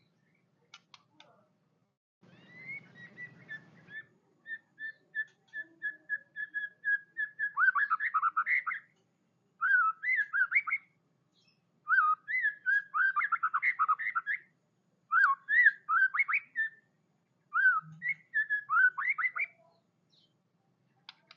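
White-rumped shama (murai batu) singing: after a short harsh, buzzy opening, a run of evenly repeated whistled notes about four a second, then quick bursts of varied, swooping whistled phrases broken by short pauses.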